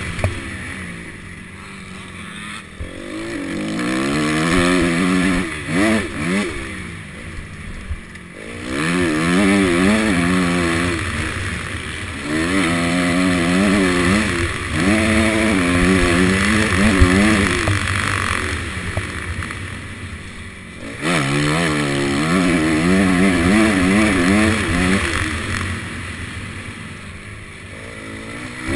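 Honda CRF250 dirt bike's single-cylinder four-stroke engine under hard riding, the revs climbing and falling in repeated surges as the throttle is opened and shut and the gears change, heard from a helmet-mounted camera.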